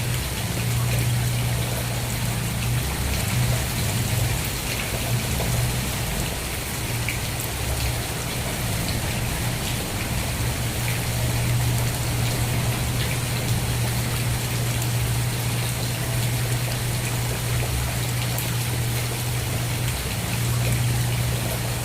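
Steady rain falling, with individual drops ticking through the hiss and a constant low rumble underneath.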